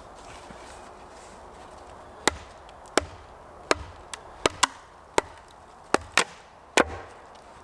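About ten sharp strikes of a hand tool into a thick round of wood, splitting it down into a thin slab, coming irregularly about every half second from about two seconds in.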